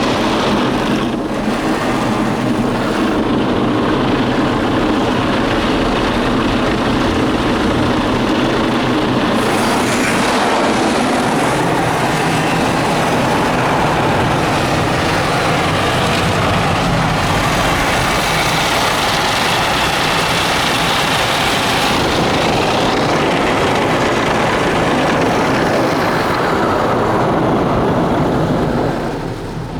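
Mark VII soft-touch car wash at work on the car: spinning cloth brushes and wheel scrubbers scrubbing amid water spray, a loud steady noise that eases slightly near the end.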